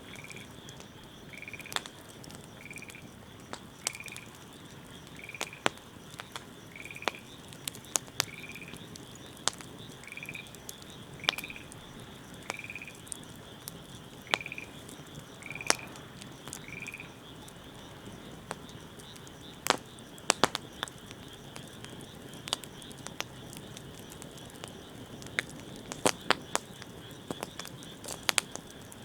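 Wood fire crackling with scattered sharp pops, while a frog calls with short repeated notes about once a second, stopping a little past halfway. A steady high tone runs underneath.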